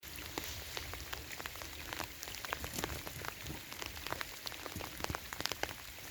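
Heavy rain, with many separate drops ticking sharply close to the microphone over a steady hiss of rainfall.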